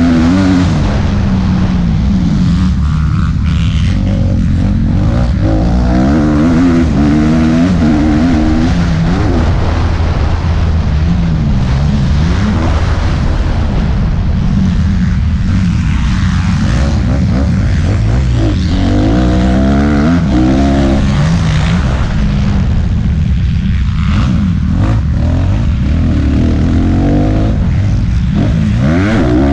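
Motocross bike engine racing, revving hard and repeatedly rising and falling in pitch as the throttle opens and closes and gears change. There is a steady rush of noise underneath.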